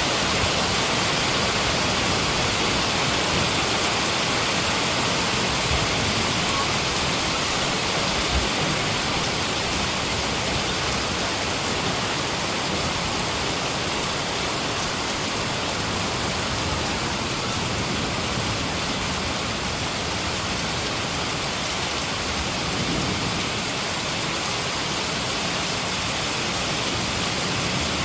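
Heavy rain falling steadily, an even hiss with no thunder clap in it.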